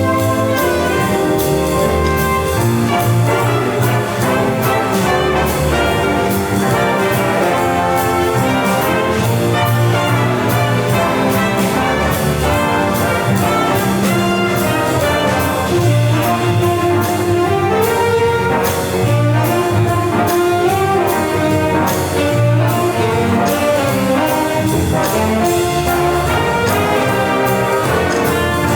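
A student band playing, with brass (trumpets and trombones) leading over a steady percussion beat.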